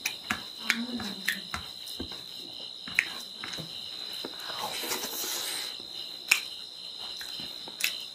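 Close-up eating sounds of a person chewing pork and rice eaten by hand: irregular wet lip smacks and mouth clicks, with a brief hissing slurp about five seconds in. A steady high-pitched drone, like crickets, runs underneath.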